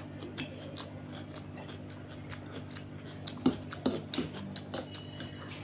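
Close-miked eating of spicy instant noodles: wet chewing and mouth smacks with scattered sharp clicks. The loudest group of smacks comes about three and a half seconds in.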